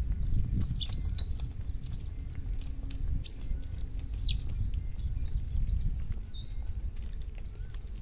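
Birds calling: about five short, sharp chirps, two quick rising notes about a second in and single notes through the middle, over a steady low rumble.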